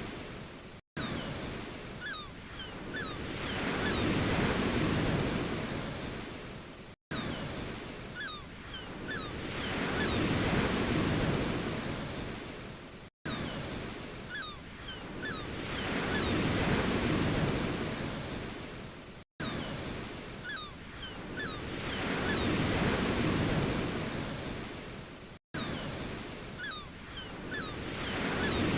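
Ocean waves surging in and washing back, swelling and falling about every six seconds. The same short recording repeats, and each pass is cut by a sudden brief dropout to silence.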